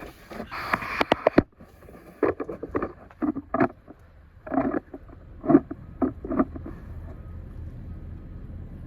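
Hand tools and metal parts being handled: a rattling clatter in the first second and a half, then a string of separate knocks and clinks until about six and a half seconds in, after which only a low steady hum remains.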